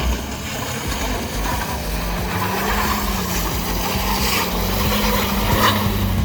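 Motor vehicle engine running with a steady drone that rises slightly about two seconds in, mixed with a rough, rasping noise of tyres on a snowy, icy road.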